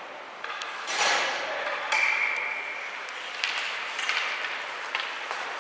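Ice hockey game play in an arena: sharp knocks of sticks and puck and the hiss of skates on ice, with a single steady high whistle-like tone lasting about a second, about two seconds in.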